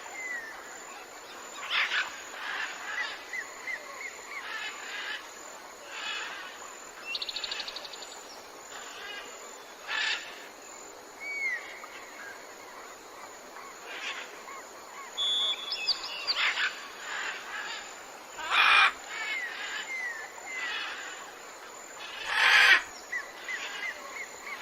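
Several wild birds calling in a forest: repeated short, curving whistled chirps, a rapid trill about seven seconds in, and scattered harsher calls, with two loud rasping bursts near the end. A steady, thin, high-pitched drone of insects runs underneath.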